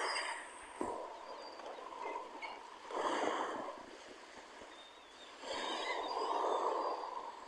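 Water splashing in two bursts, one about three seconds in and a longer one near the end, with quieter water sound between them.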